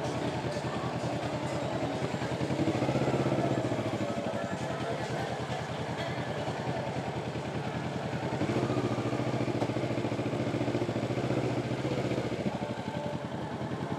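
Kawasaki Ninja motorcycle engine running at low speed, swelling louder twice as the throttle is opened, about two seconds in and again from about eight and a half seconds to twelve. The rider thinks the bike is overheating from the slow riding.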